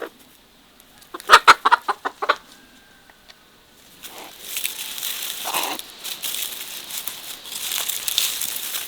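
A chicken clucking, a quick run of about eight loud clucks a second or so in. From about four seconds, a steady rustling, crackling noise takes over.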